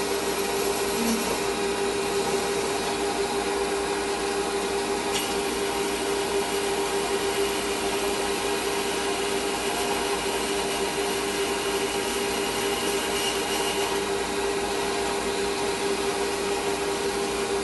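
Metal lathe running with a steady hum, spindle turning at a constant speed.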